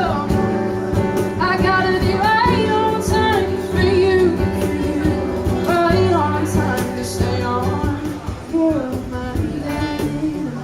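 Live acoustic country song: a woman singing a melody over instrumental accompaniment, with cajon percussion keeping the beat.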